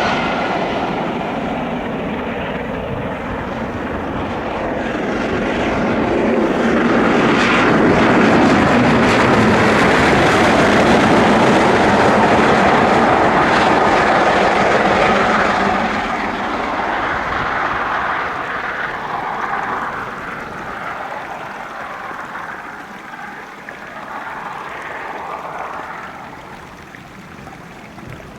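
LMS steam locomotive and its train working hard up a steep gradient: a loud, steady exhaust and running noise that peaks as it passes, then fades away over the last dozen seconds.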